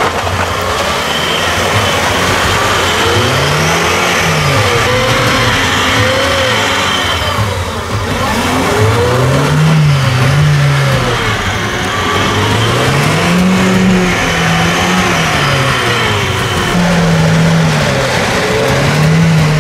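Lada Niva's 1.7-litre turbo engine revving hard in repeated surges, about five times, as the car pushes through a deep muddy puddle.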